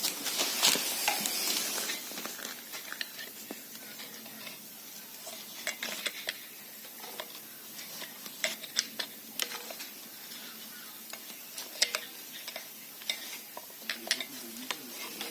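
Small metal parts and tools being handled: scattered light clicks and clinks of metal on metal. A rustling, scraping noise in the first two seconds is louder than the rest.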